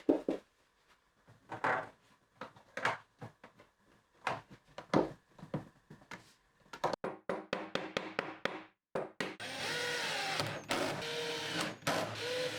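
A string of irregular knocks and clicks, then about four seconds of steady rubbing with a wavering squeak, stopping near the end.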